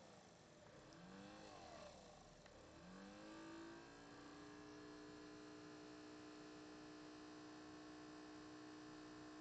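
Alienware M11x laptop's cooling fan whining, swelling and falling in pitch a couple of times, then spinning up about three seconds in and holding a steady, multi-toned hum. This is the weird, loud fan noise the owner reports on a brand-new unit, running even when the machine is nearly idle.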